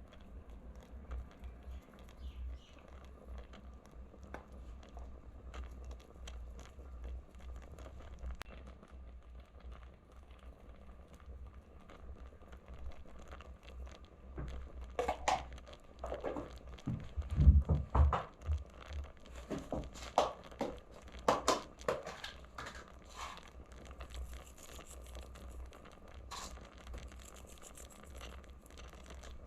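Rustling, crinkling and handling noises, busier and louder in the middle stretch, over a low steady hum.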